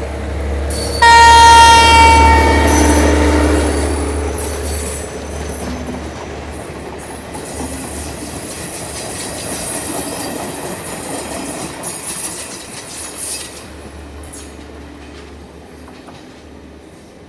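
Sri Lankan diesel train sounding a loud horn blast about a second in, lasting about two seconds and dropping slightly in pitch. The train then runs past with wheel rumble and high squealing from the wheels, which fade off near the end.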